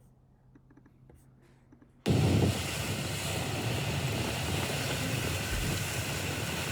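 Faint, nearly silent with a few small clicks, then about two seconds in an abrupt switch to loud, steady wind buffeting the microphone over a motorboat's outboard engine and rushing water.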